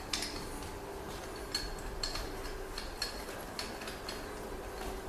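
Metal parts of a guard (fender) roller tool being fitted together: light metallic clinks and taps, about six of them spread over a few seconds, some with a short ring.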